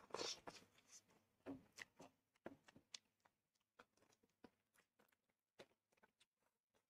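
Faint chewing and wet mouth clicks of a person eating tandoori chicken off the bone, with a louder bite right at the start followed by scattered small clicks.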